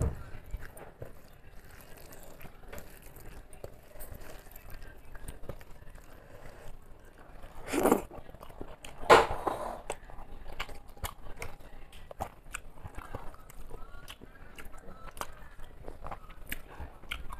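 Mouth sounds of a person eating rice and greens by hand: soft chewing with many small wet clicks and smacks. Two louder bursts come about eight and nine seconds in, as a handful goes into the mouth.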